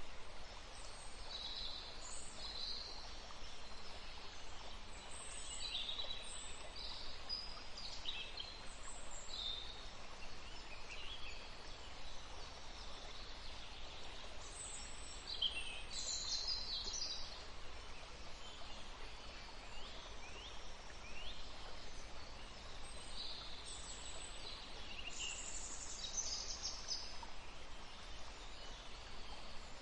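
Forest birds chirping and trilling, many short high calls scattered throughout over a steady soft background hiss of ambience.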